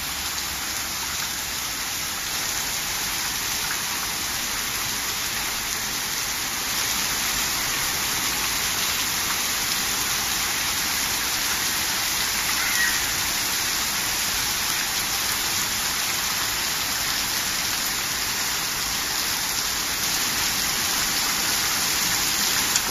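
Heavy downpour on a flooded asphalt court: a dense, steady hiss of rain splashing on standing water, a little louder from about seven seconds in.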